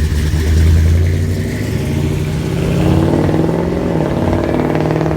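Classic cars' engines running as they drive slowly past, one after another. A deep engine note is loudest about a second in, and a second engine with a higher, busier note comes in around the middle.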